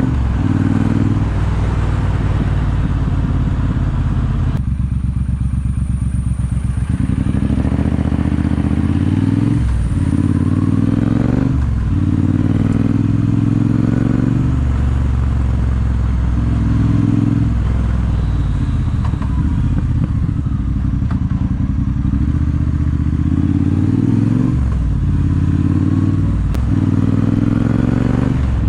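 Triumph T120 parallel-twin engine running through an aftermarket Zard exhaust while riding. Engine speed rises repeatedly and drops sharply several times at gear changes, with a slower, pulsing low-revs stretch about five seconds in.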